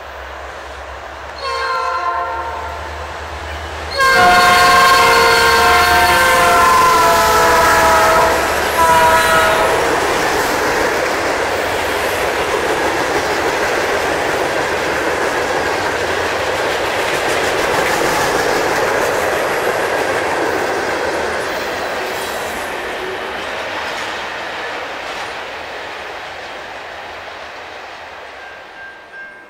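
Locomotive air horn sounding a chord: a short blast, then a louder long blast about four seconds in that lasts some five seconds. After it comes the steady rush of the train passing, which fades toward the end.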